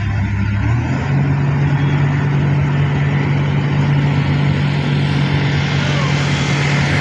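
Heavy diesel engine running steadily under load, its low drone stepping up in pitch a little under a second in and then holding.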